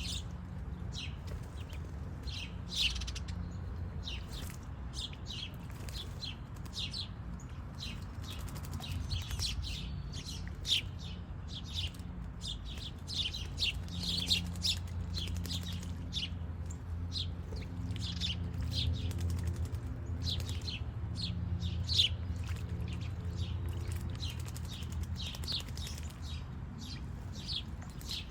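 Small backyard birds chirping, with many short, high chirps following one another closely, over a steady low hum.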